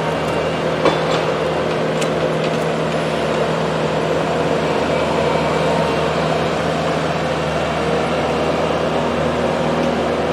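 Engine of heavy machinery running steadily at a constant speed, with a few faint clicks near the start.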